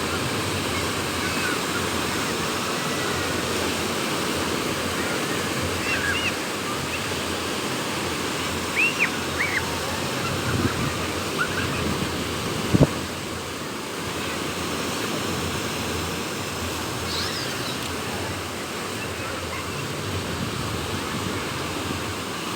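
Waves breaking and washing on a beach, a steady rushing surf with wind. A few short faint high chirps come through, and there is one sharp knock about halfway.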